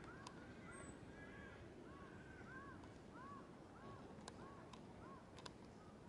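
A bird calling in a quick run of short rising-and-falling notes, about three a second, faint against a background hush, with a few light clicks in the second half.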